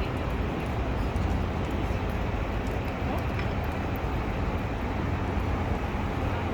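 Steady outdoor city background noise: an even low rumble with hiss above it, with no distinct event standing out.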